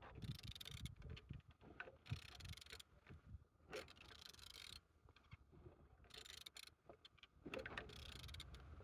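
Faint mechanical handling sounds of a removed engine being turned over by hand: irregular clicks and scraping rustles, with no combustion. The engine turns freely.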